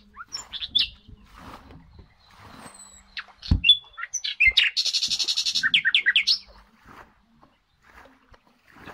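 Birds chirping with short high calls, including one rapid, dense trill lasting about a second and a half near the middle. Underneath are soft water splashes and a single thump about three and a half seconds in.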